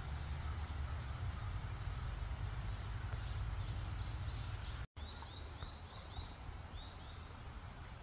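Songbird calling in short arched chirps repeated a few times a second, from about three seconds in, over a steady low rumble. The sound drops out for an instant about halfway.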